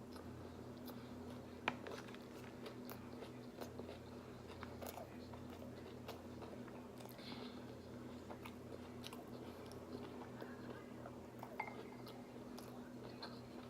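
A person chewing and biting sushi close to the microphone, with small wet mouth clicks and one sharper click a couple of seconds in. A steady low hum runs underneath.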